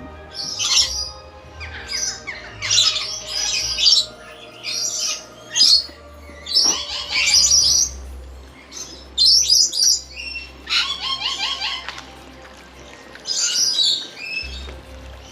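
Birds calling in quick succession: many short, harsh squawks and chirps, with a longer rasping call made of several stacked tones about eleven seconds in.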